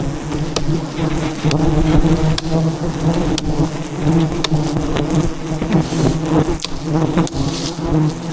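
A dense swarm of giant honey bees buzzing loudly and steadily around their exposed comb, with scattered sharp clicks through the buzz.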